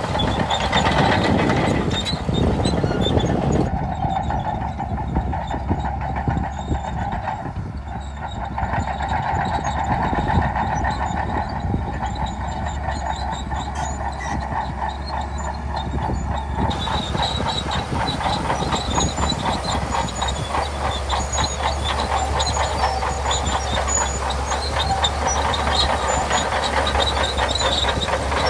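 Bulldozer at work: its diesel engine running steadily under dense, fast metallic clatter from its tracks.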